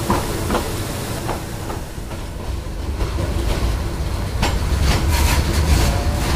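Passenger train running at a slow pace: the wheels clack over rail joints about twice a second, then a low rumble builds and grows louder as the carriage rolls on.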